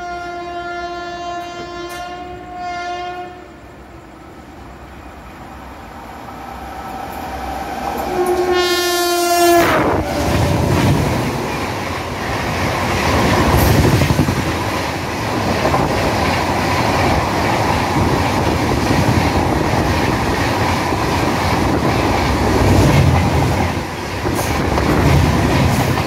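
A diesel or electric locomotive's horn sounds twice: a blast of about three seconds, then a shorter one about eight seconds later whose pitch drops as the locomotive draws level. The 12721 Dakshin Express's coaches then rush past on the next track, with a loud rumble and the clatter of wheels over rail joints.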